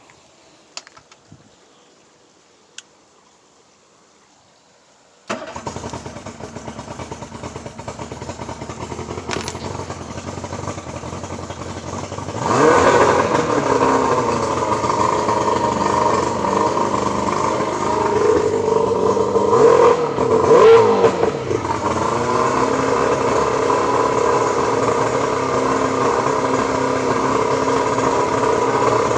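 Early-1990s Yamaha 115 two-stroke V4 outboard starting about five seconds in on its first run after a new CDI power pack, wire harness and key switch. It runs, gets louder with rising pitch about twelve seconds in, revs up and down briefly near the middle, then settles into steady running. A few faint clicks come before it starts.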